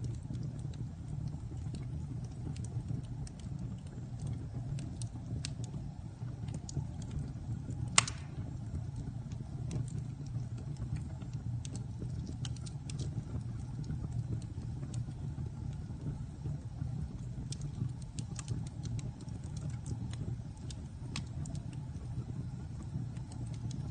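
Wood fire burning in a fireplace: a steady low rumble with scattered crackles, and one loud pop about eight seconds in.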